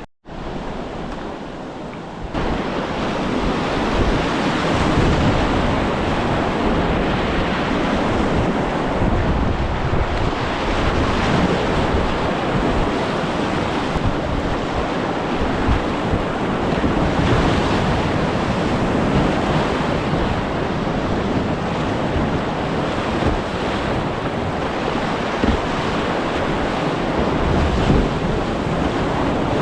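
Rushing whitewater of a river rapid, a steady rush of water with wind buffeting the microphone; it gets louder about two seconds in.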